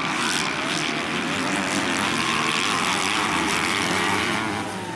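Several 250 cc grasstrack racing motorcycles at full throttle, their engines revving and overlapping as the pack goes by; the sound eases a little near the end.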